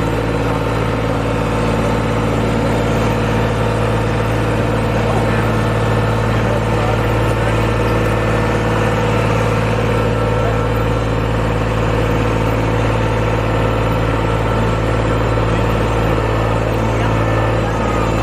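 Tractor engine running steadily at a constant speed, pulling a ride.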